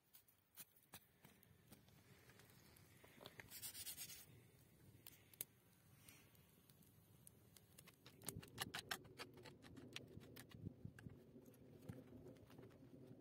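Faint hand-work sounds of stone building: a brief scrape a few seconds in, then from about eight seconds a run of quick small clicks and knocks over a low rustle.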